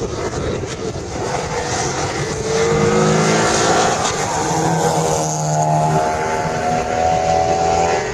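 Car engines running at a drag strip. About two and a half seconds in, one engine revs up with a rising pitch, then holds a steady note over another engine running lower.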